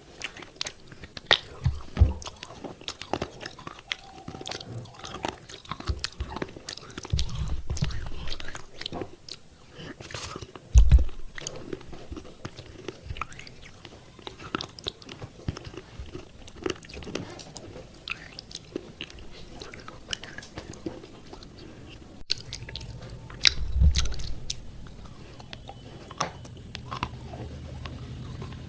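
Close-up biting and chewing of thick broken pieces of fired clay pot, with sharp irregular crunches and cracks throughout and a few heavier bites.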